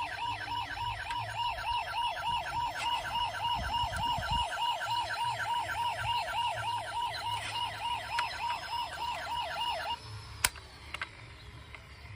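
Electronic siren of a toy emergency vehicle, a fast rising-and-falling wail of about three cycles a second. It stops suddenly about ten seconds in and is followed by a single sharp click.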